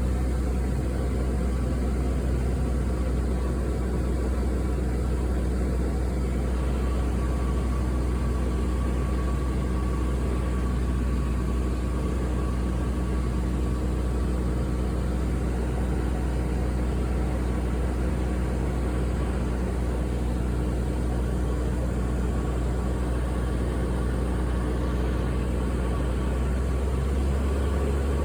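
Steady low drone of airplane cabin noise, heard from inside the cabin, with a few constant hum tones over a deep rumble.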